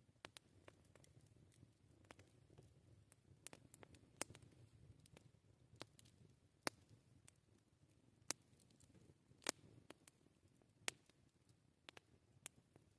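Wood campfire crackling: irregular sharp pops and snaps, a few louder than the rest, over a faint low rumble.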